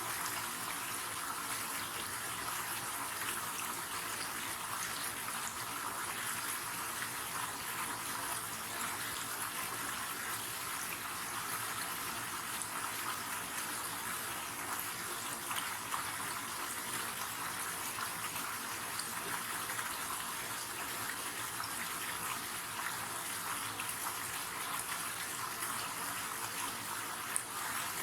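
River water flowing in a steady, even rush, with the fine splashing hiss of water running over stones.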